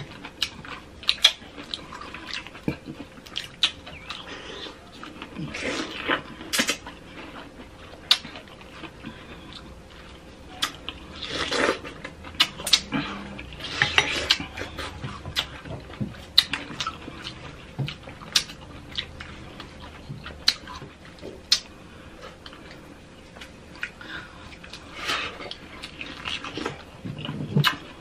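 Close-miked eating of fresh fruit and whipped cream: wet chewing and mouth sounds in short bursts, with scattered sharp clicks of a metal spoon against a glass bowl.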